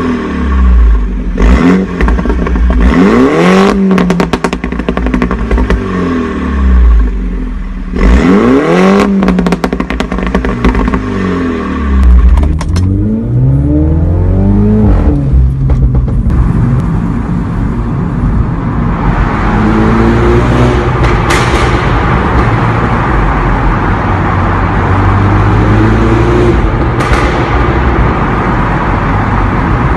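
MINI John Cooper Works F56's turbocharged four-cylinder engine breathing through a Remus exhaust, revved up and back down about three times with sharp crackles. For the second half it runs at a steadier pitch under a wash of road and tyre noise.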